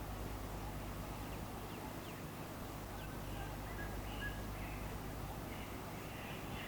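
Faint bird chirps and short whistles, starting about three seconds in, over a steady low outdoor rumble.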